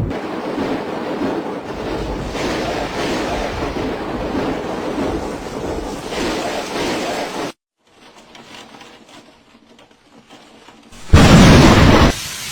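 Steady rain hiss that cuts off abruptly. After a few quiet seconds comes a sudden loud thunderclap from a close lightning strike near the end.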